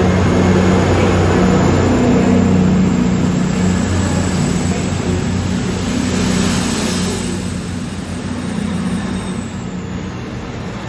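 CrossCountry Voyager diesel multiple unit pulling away, its underfloor Cummins diesel engines running under power with a steady low drone that fades over the second half as the train moves off.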